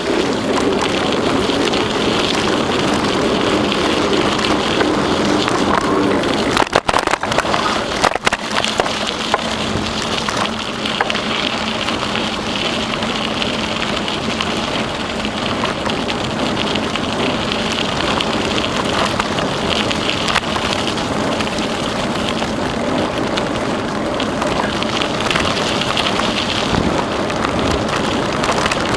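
Steady rushing noise of a bicycle ride along a trail: tyres rolling on the path and air rushing past the camera. A short cluster of sharp knocks and rattles comes about seven seconds in.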